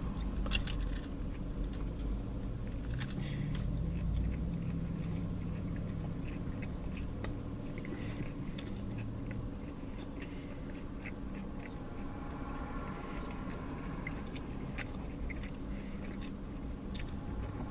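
A man chewing and biting food close to the microphone, with scattered small crunches and mouth clicks over a low steady hum.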